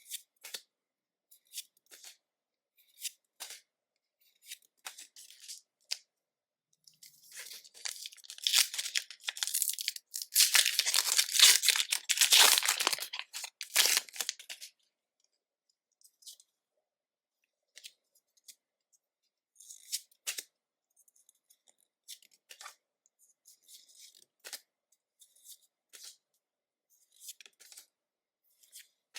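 A Pokémon booster pack's foil wrapper being torn open, a loud crinkly tearing that lasts several seconds about a quarter of the way in, with short soft clicks and rustles of cards being handled before and after.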